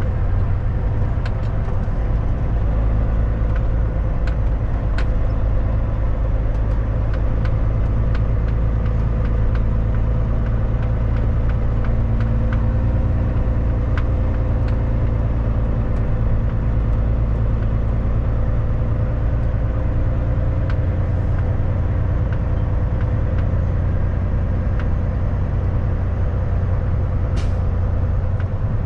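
Kenworth W900 semi truck driving: a steady diesel engine drone with road noise and scattered light clicks and rattles, and a short hiss near the end.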